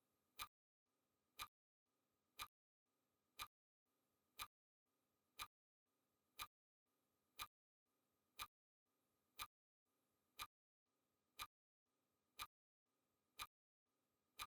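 Clock ticking sound effect of a countdown timer: one sharp tick a second, steady and even.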